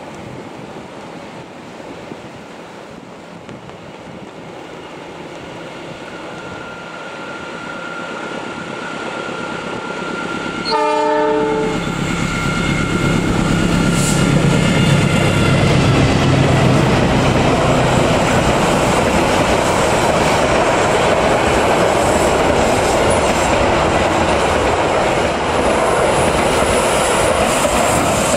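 Diesel-hauled passenger train approaching, its sound building steadily. The locomotive gives one short horn blast about eleven seconds in. The locomotive and coaches then run past loudly, wheels rumbling over the rails.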